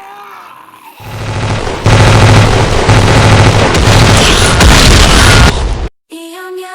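A loud, dense rumbling boom that swells from about a second in, holds for several seconds, then cuts off abruptly. Sung music starts near the end.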